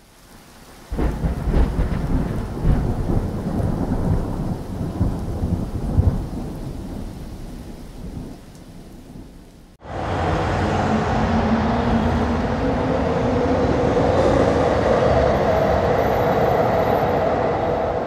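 Thunderstorm sound effect: rain hiss, then heavy thunder rumbling in from about a second in, loudest about six seconds in and slowly dying away. Just before halfway it cuts off abruptly and is replaced by a steady train-station ambience.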